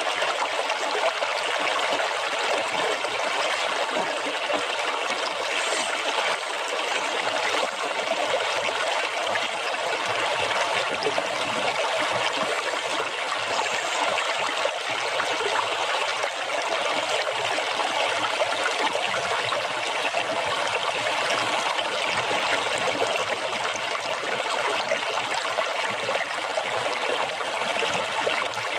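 Running water splashing and trickling steadily, an even rushing with no breaks or distinct events.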